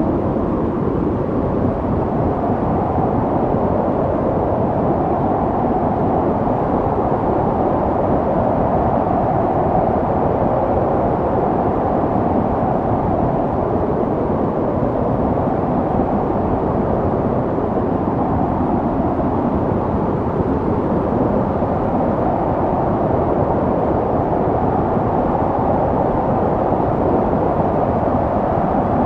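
Snowstorm wind blowing steadily: a deep, even rushing noise that swells and eases slowly.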